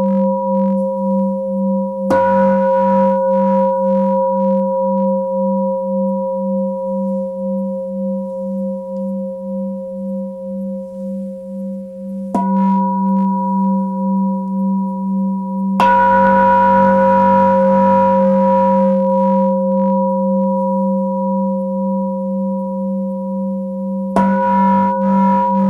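Tibetan singing bowl struck four times at uneven gaps, each strike ringing on without break into the next, with a low hum that wavers in a steady pulse under higher, steady overtones.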